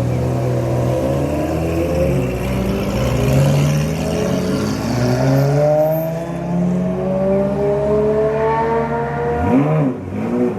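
Classic supercar engine pulling away, its pitch climbing steadily for several seconds under acceleration, then two quick throttle blips near the end.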